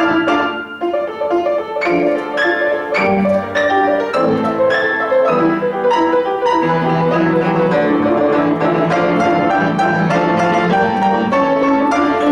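Piano playing a classical-style piece: a steady flow of notes over sustained lower tones.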